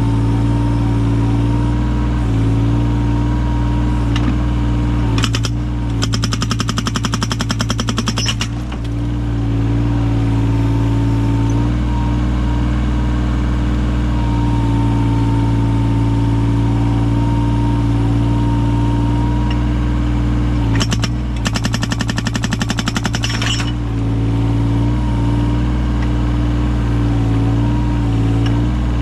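Yanmar 017 mini excavator's diesel engine running steadily, with two bursts of rapid hammering, each about two and a half seconds long, from its hydraulic breaker fitted with an axe-shaped chisel driving into firewood logs to split them.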